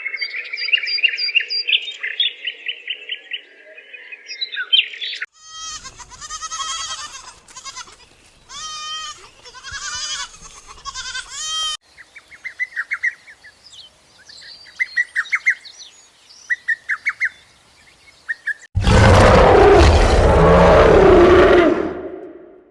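A run of animal sounds. Birds chirp for the first five seconds and again in the middle, with pitched calls that bend in pitch between those two stretches. A loud, rough call lasts about three seconds near the end.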